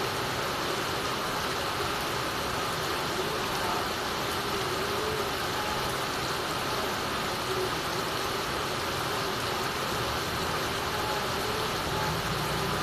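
Heavy rain falling steadily, with water running and dripping off the edge of a tiled roof.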